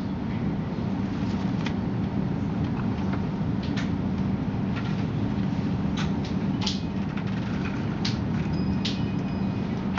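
Steady low hum inside a train carriage standing at a station, from the train's running equipment, with several short, sharp ticks and hisses scattered through it.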